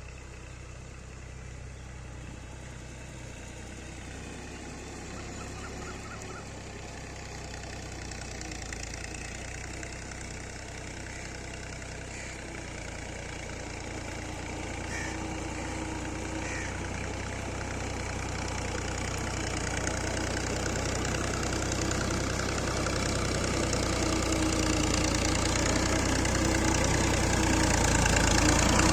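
Ghazi 65 hp tractor's diesel engine running steadily, its low drone growing steadily louder.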